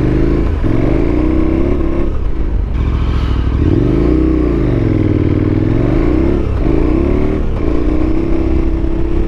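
KTM 1290's V-twin engine pulling the motorcycle away on a dirt road, its pitch climbing, breaking off and rising and falling several times as it accelerates through the gears.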